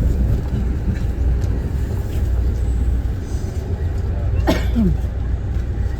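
Steady low rumble of an Amtrak passenger train in motion, heard from inside the coach. About four and a half seconds in, a brief pitched sound glides in pitch.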